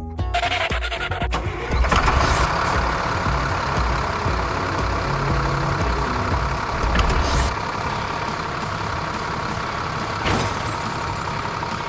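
A large vehicle engine running loudly and steadily, with two brief sharp knocks, one about seven seconds in and one about ten seconds in.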